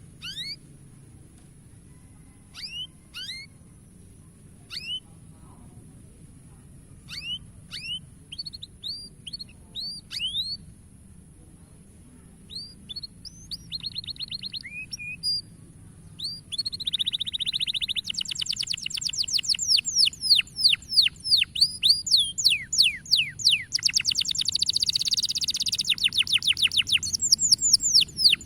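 Domestic canary singing: scattered short chirps and call notes at first, then, a little past halfway, a loud, fast trilling song of rapidly repeated notes that keeps going.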